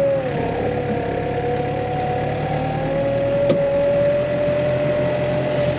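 Tractor engine running steadily with a prominent whine that dips slightly in pitch just after the start and rises back about three seconds in, then shuts off abruptly at the end.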